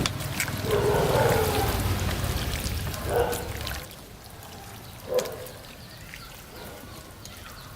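Pieces of raw beef liver being poured into a bowl of marinade, with a wet pouring and sloshing sound over the first few seconds, then two short wet squelches.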